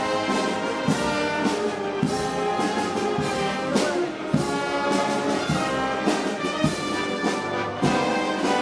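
Brass band playing festival music, with trumpets and trombones holding chords over a steady drum beat.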